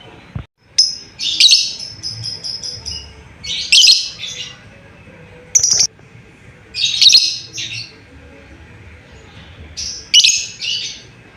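Lovebird giving shrill, chirping calls in repeated short bursts, one every second or two, the kind of calling used to lure other lovebirds into answering.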